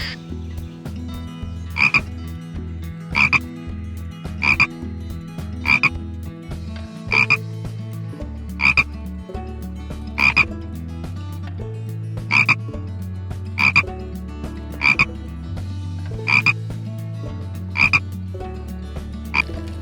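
A frog croaking repeatedly, about a dozen short double-pulsed calls at fairly even intervals of a little over a second.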